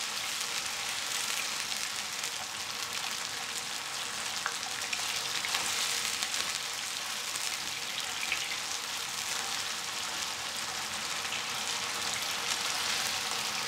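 Beef slices sizzling in hot oil in a pan as they are seared, a steady crackling hiss while they are turned with wooden chopsticks.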